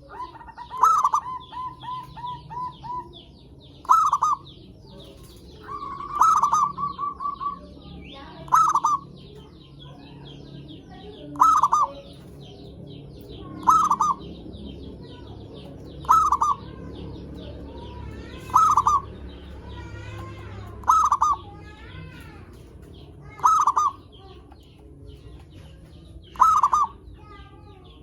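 Zebra dove (perkutut) cooing over and over, a short call about every two and a half seconds, with two quick runs of repeated notes in the first several seconds. Fainter high chirps from small birds run underneath.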